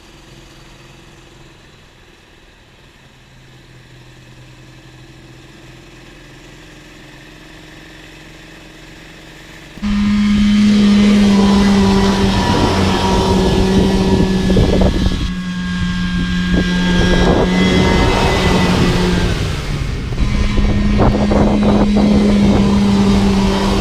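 Snowmobile engine running faintly at first. About ten seconds in it becomes much louder and closer, holding a steady pitch with two brief dips in revs.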